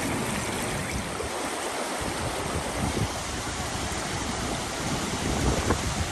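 Steady rush of flowing river water, an even wash of noise with no pauses.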